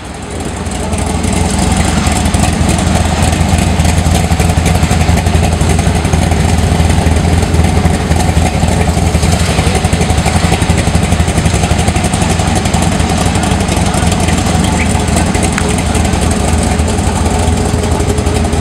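A classic car's engine running close by with a steady, deep rumble, growing louder over the first second or so and then holding steady.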